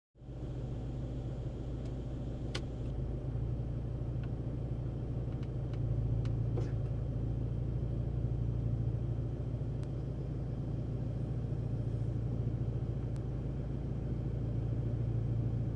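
2013 Fiat 500 Turbo's 1.4-litre four-cylinder engine idling steadily, heard from inside the car's cabin, with a few faint clicks.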